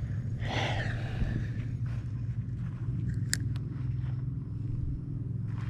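A brief swish about half a second in, and a sharp click about three seconds later, consistent with a fishing rod being cast and the reel's bail snapping shut, over a steady low rumble.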